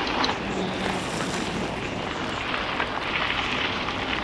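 Steady rushing wind and road noise while riding a touring bicycle.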